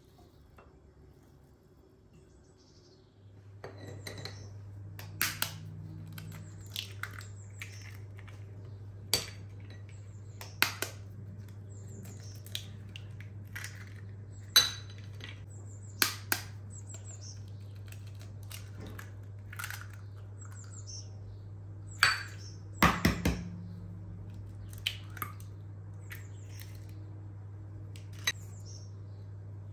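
Kitchen utensils and dishes clinking, a dozen or so sharp taps scattered through, over a steady low hum that comes in a few seconds in.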